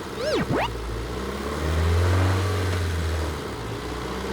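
Truck engine running with a low rumble that swells about a second and a half in, then eases off. A quick rising-and-falling whistle comes at the very start.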